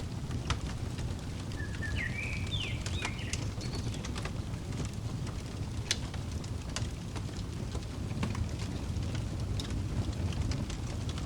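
Wood fire crackling, with scattered sharp pops over a steady low rumble. A few short bird chirps come about two to three seconds in.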